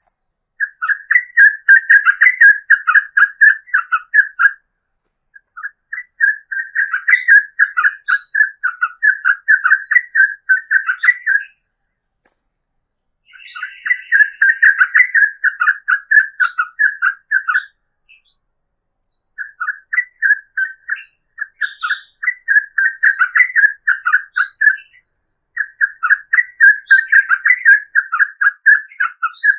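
Yellow-vented bulbul singing: long runs of fast, chattering repeated notes, coming in bouts of several seconds each with short pauses between them.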